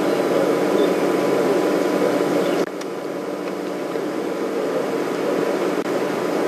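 Steady hum and hiss that drops slightly in level about two and a half seconds in, with a few faint high bird chirps.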